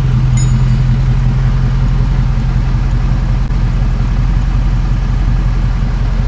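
A vehicle engine idling steadily, a low, even rumble, with a faint click about half a second in.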